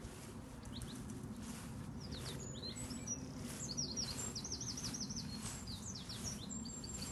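A small bird singing: runs of quick, high chirps and down-slurred notes starting about two seconds in, over a steady low background rumble.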